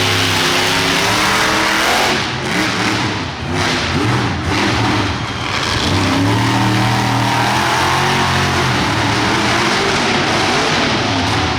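Monster truck engine revving hard, with the throttle lifted and reapplied several times about two to five seconds in, then held high again.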